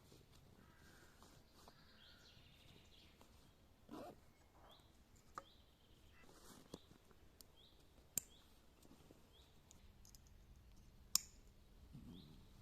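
Quiet natural ambience with a bird giving short, faint calls over and over, each a quick falling note. A few sharp clicks stand out, the loudest about 11 seconds in.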